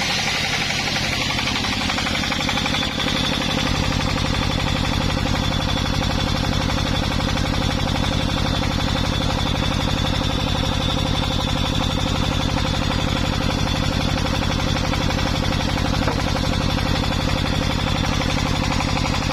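Small petrol engine dropping in speed over the first few seconds, then idling steadily with an even pulsing beat.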